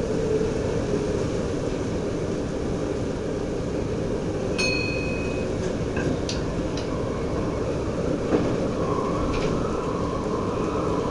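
DM'90 diesel railcar running along the track, heard inside the driver's cab: a steady low rumble with scattered clicks, a short high tone about four and a half seconds in and a sharp knock about eight seconds in.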